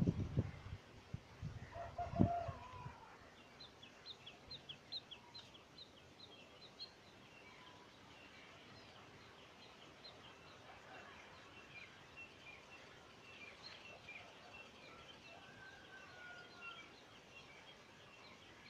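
Birds calling faintly: a lower pitched call about two seconds in, then a long run of quick, high chirps and a short whistle near the end. There is a low bump at the very start.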